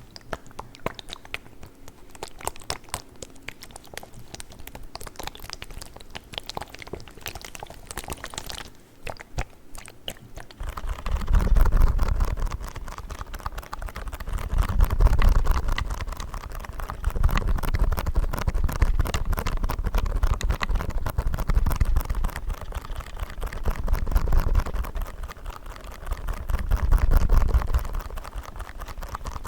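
Plastic ice cubes clicking and rattling against each other for about the first ten seconds, then play foam squeezed and kneaded close to the microphone: a crackling, crunchy texture with deep, swelling squishes every two to three seconds.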